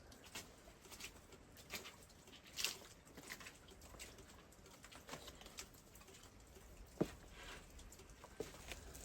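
Scattered light taps and clicks at an irregular pace, quiet overall, with a sharper knock about 7 seconds in.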